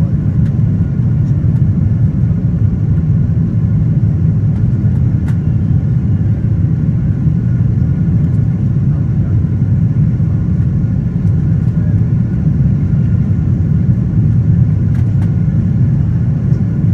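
Boeing 777-200ER cabin noise from an economy seat: a steady low rumble of the jet engines and airflow, even throughout, with a few faint clicks.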